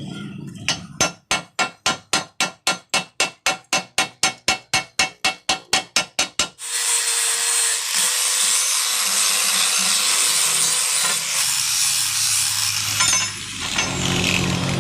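Rapid back-and-forth hand-tool strokes, about four a second, for about six seconds. Then a power tool runs steadily until shortly before the end.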